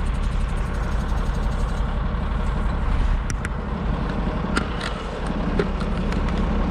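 Heavy truck engine idling steadily, with a few sharp light clinks about halfway through.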